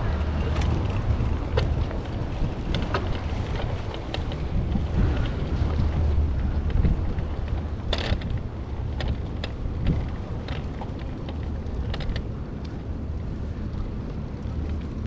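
Wind buffeting the microphone of a moving bicycle as a steady low rumble, with scattered light clicks and rattles, the sharpest about eight seconds in.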